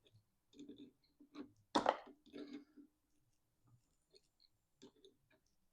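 Small clicks and knocks of a hose, barbed fitting and clamp ring being handled and fitted, the loudest knock just under two seconds in.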